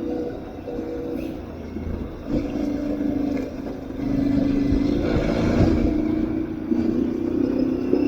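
Aprilia Tuareg 660's parallel-twin engine running steadily, easing off about half a second in and pulling harder again from about four seconds in, with a few short knocks.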